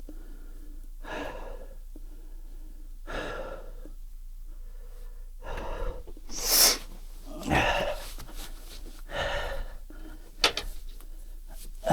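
A man breathing hard, with short, heavy breaths about every one to two seconds.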